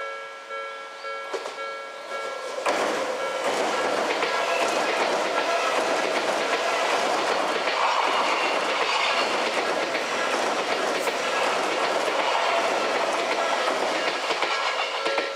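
Level-crossing warning bell ringing in a steady repeating pattern. About three seconds in, an Odakyu Line train passes over the crossing, its rumble and wheel clatter drowning the bell until near the end, when the bell is heard again.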